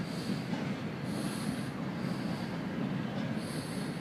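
Freight train of covered hopper and tank cars rolling slowly past with a steady low rumble, while a high squeal from the train comes and goes about every two seconds.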